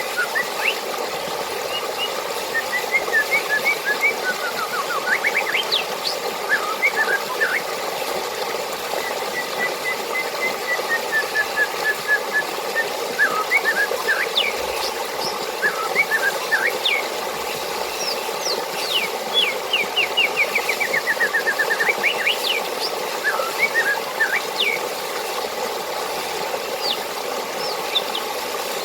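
Steady rush of running water, with birds chirping and trilling over it: many short calls, quick rising notes and runs of repeated notes.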